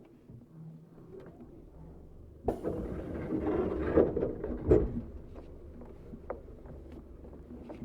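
Inside a Tokyu 7700-series commuter train car: quiet cabin noise, then about two and a half seconds in a sudden rush of noise with two knocks close together, settling into a steady low hum.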